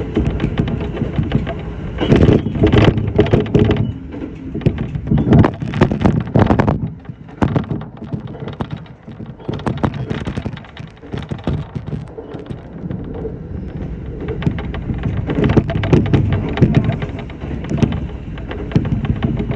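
Electric commuter train running, heard from inside the car behind the cab: a low rumble of wheels and running gear that swells and eases, with many short knocks and rattles.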